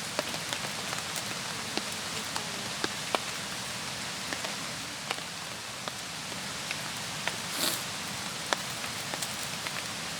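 Steady rain hissing, with scattered drops ticking sharply on a nearby surface and one brief louder hiss about seven and a half seconds in.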